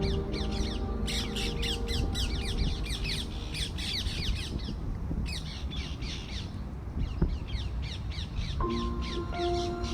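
Birds chirping in quick runs of short falling notes, over background music of held chords; a new chord comes in near the end.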